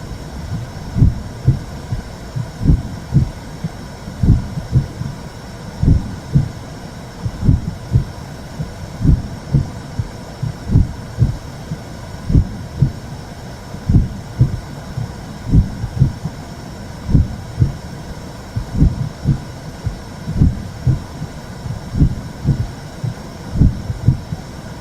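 Womb sound for soothing a baby: a slow, steady heartbeat, a double thump about every second and a half, over a continuous white-noise whoosh.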